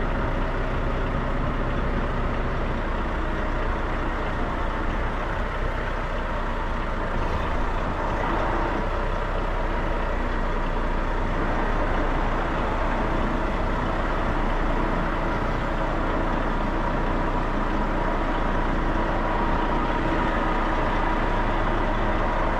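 Semi truck's diesel engine running steadily at low revs while the rig reverses slowly.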